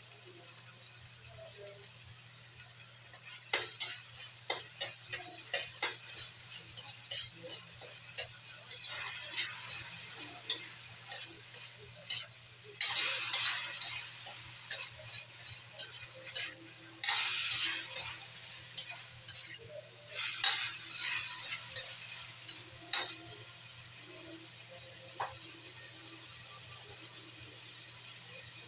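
Chicken pieces frying in a metal wok over a gas burner, with a steady sizzle. From a few seconds in until about five seconds before the end, a utensil stirs the pieces, scraping and knocking against the wok in repeated bursts, the loudest about halfway through.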